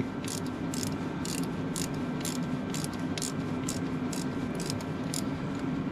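Ratchet wrench clicking in short strokes, about two a second, as a starter mounting bolt is worked loose, over a steady low hum.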